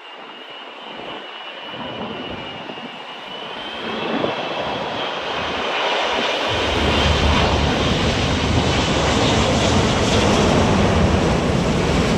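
Jet airliner passing close, its engine noise growing steadily louder with a high whine. About six and a half seconds in, a deep rumble joins and the sound stays loud.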